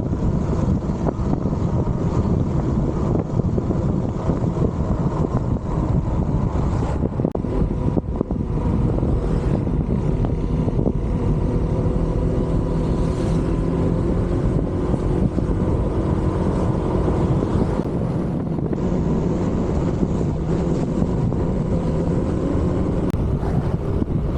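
Wind buffeting the microphone over the steady drone of a Honda ADV160 scooter's single-cylinder engine while riding. The engine's pitched hum shows most plainly about halfway through.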